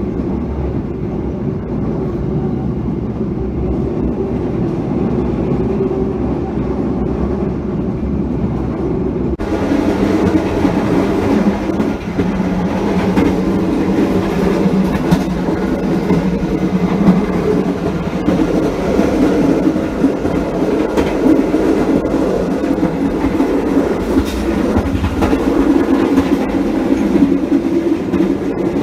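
A passenger train running on the rails with a steady rumble. About nine seconds in, the sound suddenly turns brighter and louder.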